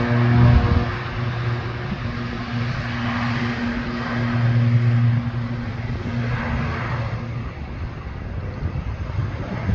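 Aircraft engines running at an airport: a steady drone with a low hum over a rush of engine noise, easing off slightly after about seven seconds.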